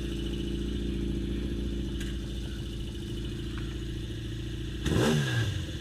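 Motorcycle engine idling steadily, with one quick throttle blip about five seconds in: the revs rise sharply and drop back to idle.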